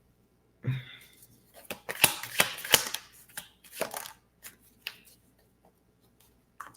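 Tarot cards being handled and shuffled: an irregular run of quick rustles and clicks, thickest about two to three seconds in.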